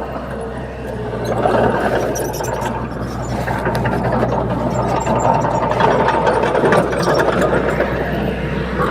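Bulldozer's diesel engine running steadily, with scattered light clicks over the drone.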